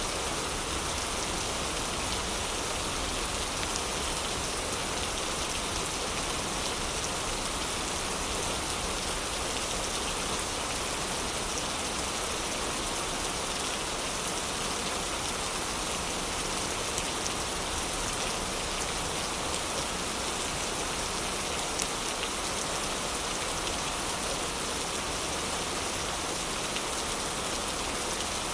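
Heavy, steady rain, with a few faint crackles from a wood fire, the clearest about 22 seconds in.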